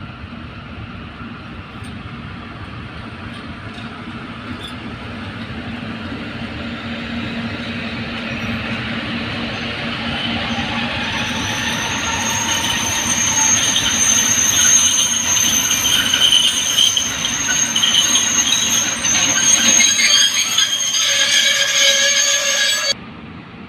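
Long freight train of open-top wagons rolling past behind an electric locomotive. The wheel and rail noise grows steadily louder, and a high steady wheel squeal joins about halfway in. The sound cuts off suddenly near the end.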